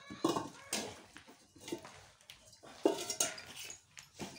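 Dishes and cutlery clinking as they are handled and set down, several separate sharp knocks.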